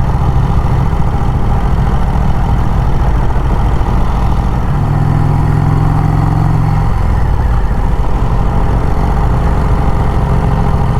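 Vincent Rapide V-twin motorcycle engine running under way on the road, a steady note that strengthens for a couple of seconds around the middle, then eases back.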